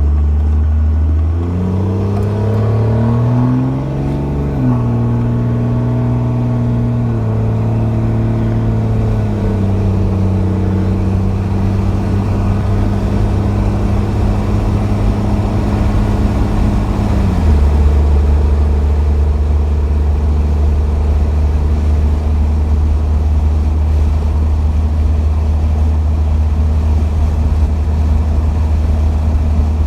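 1998 Dodge Ram 2500's 24-valve Cummins turbo diesel with an 8-inch dump exhaust, accelerating up through the gears. Its pitch climbs over the first few seconds, then drops in steps at each upshift about four, seven and nine seconds in. It settles into a steady drone that deepens and grows stronger about seventeen seconds in.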